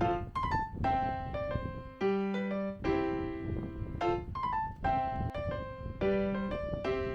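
Background music: a piano or electric piano playing a repeating phrase of struck notes, with a low bass note about every two seconds.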